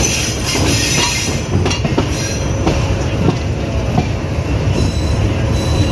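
Metre-gauge passenger train running into a station, heard from an open coach doorway: a steady low rumble of wheels on rail with irregular sharp clicks as the wheels cross rail joints and points, and a high hiss that dies away after about two seconds.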